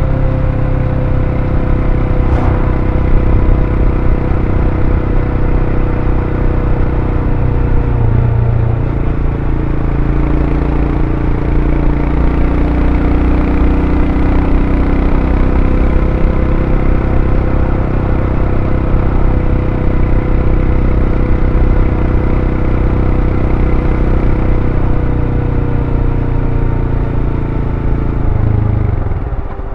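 Royal Enfield Scram 411's single-cylinder engine running through its stock exhaust while riding, its pitch easing slowly down. The engine note dips briefly about eight seconds in and again just before the end.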